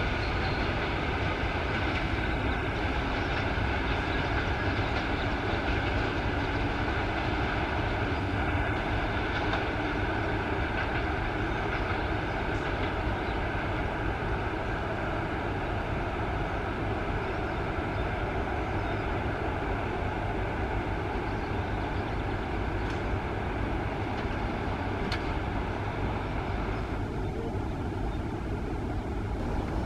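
A train running past on the line, with a steady, continuous running noise of wheels and traction equipment.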